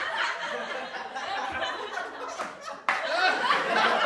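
A group of people laughing, with many voices overlapping in a lively mix of laughter and chatter. Almost three seconds in it cuts sharply to another burst of group laughter.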